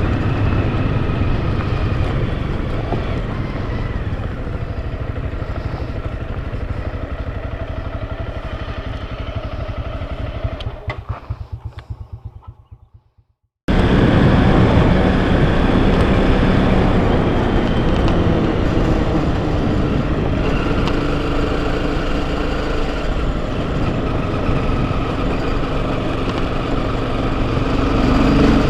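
Enduro motorcycle engine running under way. About ten seconds in the sound fades and breaks up into a brief silence, then the engine sound returns suddenly at full level.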